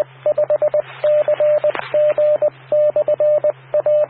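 Amateur radio repeater sending its Morse code identification: a single mid-pitched tone keyed in quick dots and dashes, in groups, over the steady low hum and hiss of the radio channel.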